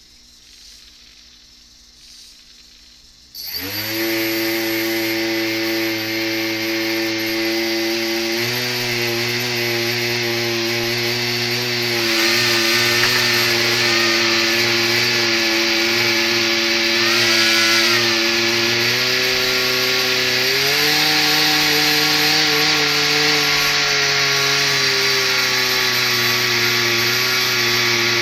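An RC hovercraft's motors and propellers starting up about three and a half seconds in and running steadily with a buzzing tone. They are run up in steps, going higher in pitch about eight seconds in and again about twenty seconds in.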